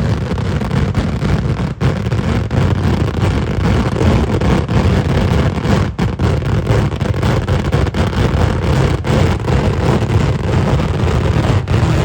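Kerala temple-festival fireworks (vedikkettu) in a dense barrage, countless firecracker blasts running together into a steady deep rumble with sharp cracks on top.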